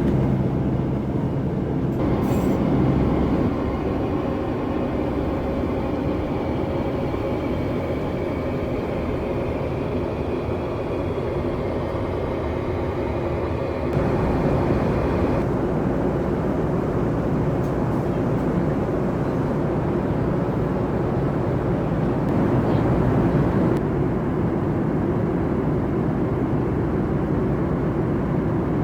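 Steady cabin noise inside a Boeing 747-400 airliner: a continuous rumble of engines and rushing air. Its tone and level shift abruptly a few times.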